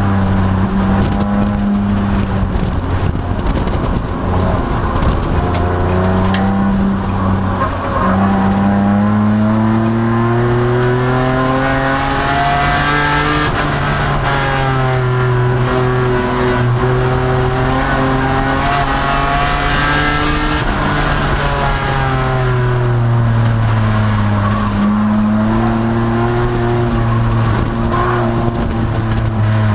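2002 Nissan Maxima's 3.5-litre V6 engine at racing speed. It pulls up to a high, held pitch through the middle, then drops in pitch after about twenty seconds and runs lower near the end.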